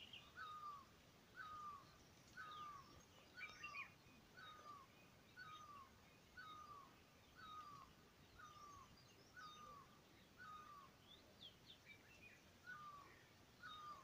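A wild bird repeating a short, downward-slurred call about twice a second, over and over. The call is faint, and fainter chirps of other birds come in between.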